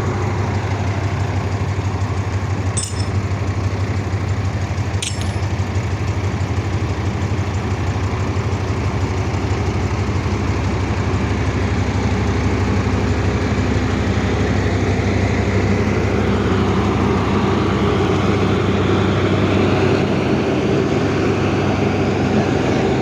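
Large excavator's diesel engine running steadily, swelling somewhat through the middle as it works under load, with two short clicks a few seconds in.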